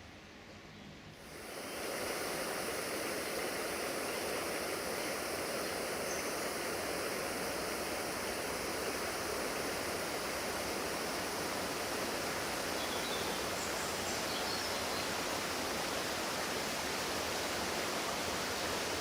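Rushing floodwater: a steady, even rush of water that comes in about a second in and then holds unchanged.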